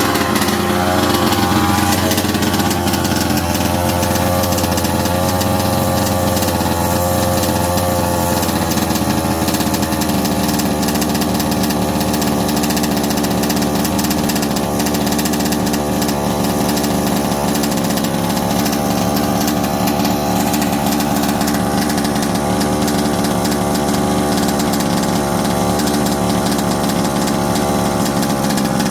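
A 1/5-scale RC truck's 36cc two-stroke engine running steadily at low revs. Its pitch wavers slightly for the first several seconds, then holds even.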